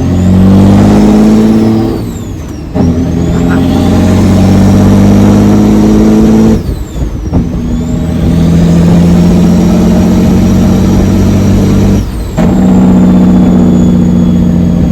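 Diesel semi truck engine pulling hard through the gears on a drag pass. Its pitch climbs steadily and breaks briefly at shifts about 2, 7 and 12 seconds in, and a high turbo whistle falls and rises again with each shift.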